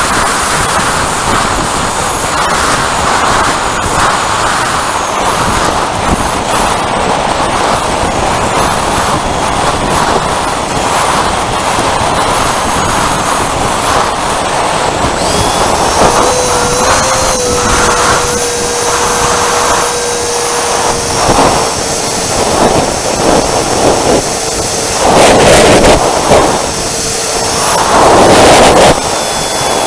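Electric ducted-fan whine of a Freewing Avanti S 80mm RC jet, mixed with heavy wind noise on the microphone. The fan's steady whine stands out more clearly from about halfway through, and two louder gusts come near the end.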